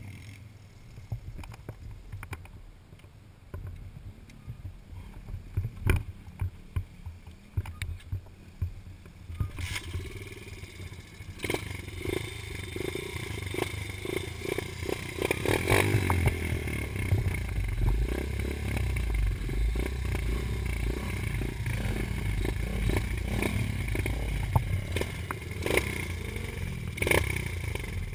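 Dirt bike running, quietly at first with scattered knocks and rattles, then louder about a third of the way in as it gets under way, with a further rise in the middle and bumps and clatter throughout.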